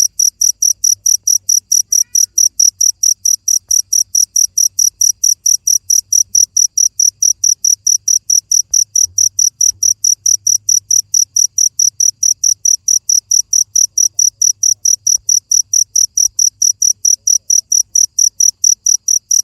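A cricket chirping loudly and steadily: high, even chirps at one pitch, about four a second, without a break.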